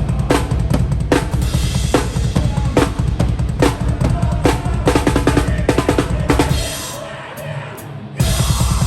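Hardcore band playing live with the drum kit up front: rapid, continuous bass drum under a snare hit just under once a second. About seven seconds in the kick drops out for about a second and a half, then the full band crashes back in.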